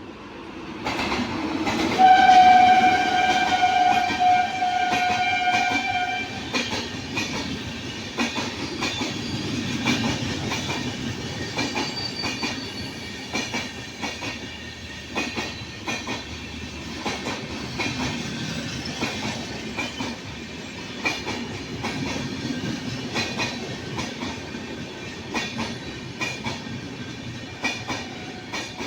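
Indian Railways train passing close by: its horn sounds one blast of about four seconds a couple of seconds in, and the wheels keep up a steady clickety-clack over the rail joints as the coaches run past.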